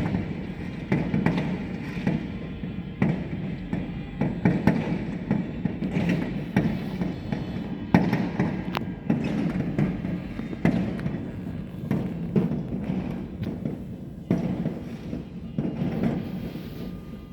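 New Year's fireworks going off, a string of sharp bangs a second or two apart over a continuous low din of music and street noise.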